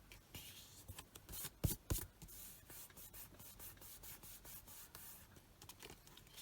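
Hands rubbing and handling paper card on a craft table, with light scratchy rubbing and small clicks, and two sharper knocks about two seconds in.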